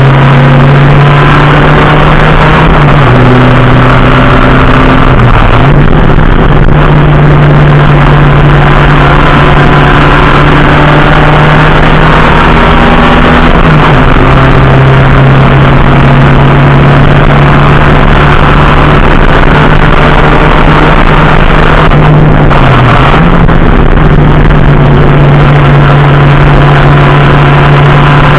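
Race car engine running hard at high, steady revs, its pitch dipping briefly and recovering about four times.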